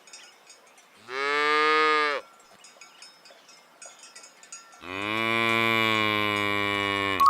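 Cow mooing twice: a short moo about a second in, then a longer one about five seconds in.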